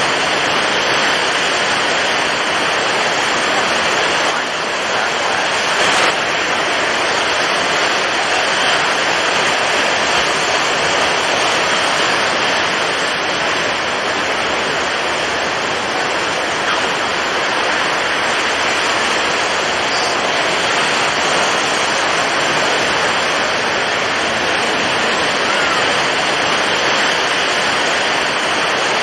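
Violent storm at sea: strong wind blowing and heavy waves breaking, a loud, dense, steady wash of noise.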